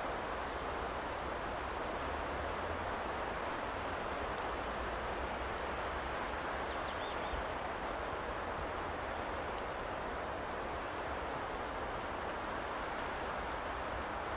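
Steady white-noise ambience, an even rushing hiss that does not change. Faint high chirps are scattered through it, some in quick runs, with a short falling call about seven seconds in.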